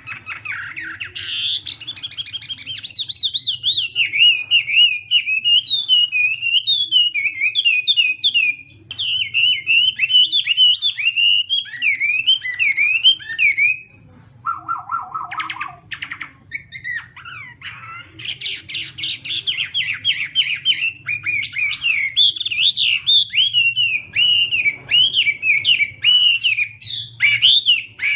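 Chinese hwamei singing a long, varied song of rapid warbled and whistled phrases. There is a short pause about halfway, followed by a brief run of lower notes before the song resumes.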